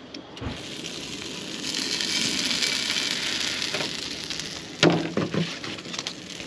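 Quesadilla frying in an oiled pan on a propane camp stove, a steady sizzle that swells about two seconds in. A short knock and rattle of handling about five seconds in.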